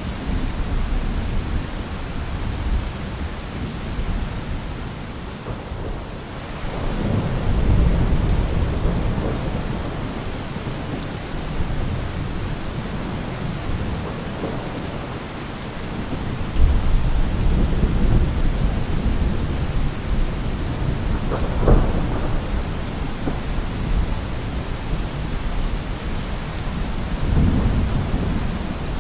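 Steady rain with rolling thunder that swells several times, and a sharper crack of nearby thunder a little past the middle.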